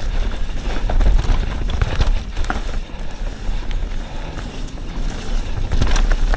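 Yeti SB 150 mountain bike riding down a dirt trail: wind buffets the microphone with a heavy rumble, over tyre noise and many short clicks and rattles from the bike jolting over bumps.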